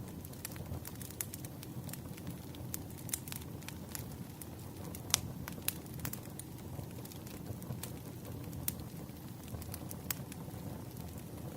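Wood fire burning, with a steady low rush of flames and scattered crackles and pops of burning firewood; the sharpest snap comes about five seconds in.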